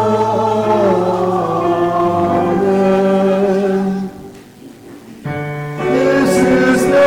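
Congregation singing a sung liturgical response in long held notes, breaking off about four seconds in and starting again a second later.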